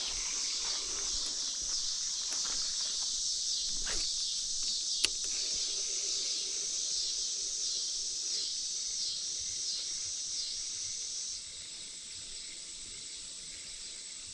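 Chorus of insects buzzing and trilling at a high pitch with a pulsing rhythm. The loudest layer stops about 11 seconds in, leaving a fainter steady high buzz. A single sharp click comes about five seconds in.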